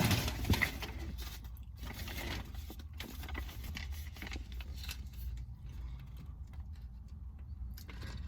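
Handling noise from fast-food packaging being moved about: scattered rustles, taps and clicks, busiest in the first second, over a low steady hum.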